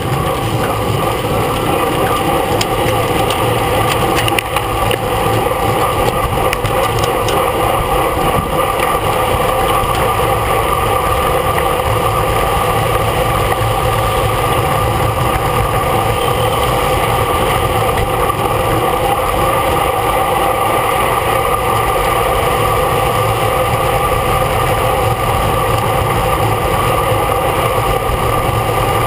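Steady wind and road noise from a bicycle being ridden in a race, with a low rumble and a constant hum.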